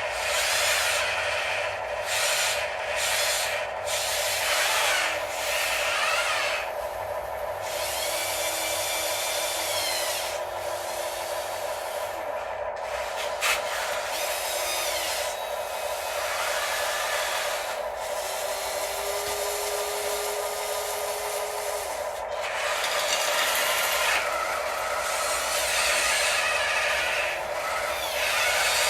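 Radio-controlled excavators, dump trucks and a loader working together. A steady whine runs throughout, other motor whines rise and fall, and stretches of scraping and grinding noise come and go.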